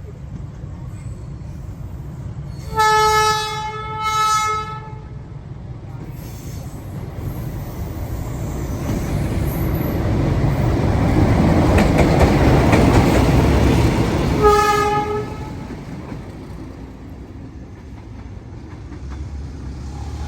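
Train horn sounding two short blasts, then the rumble of the train growing loud as it passes close, with one more short horn blast about fourteen seconds in before the noise fades.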